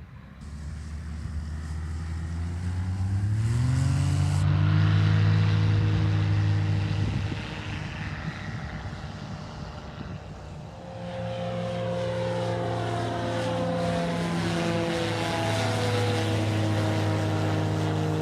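Light propeller airplane's piston engine throttling up to full power, its pitch rising about three seconds in. After a dip in the middle it comes back steady, with its tones sliding slowly down as the plane passes.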